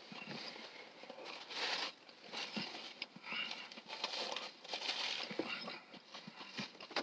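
Chewing a mouthful of burger, with a paper napkin and food wrappers rustling and crinkling in short bursts.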